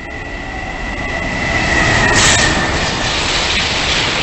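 Freight train hauled by an EF210 electric locomotive passing through a station at speed. The rumble grows as it approaches and is loudest as the locomotive goes by about two seconds in, followed by the steady rush and rattle of the container wagons rolling past.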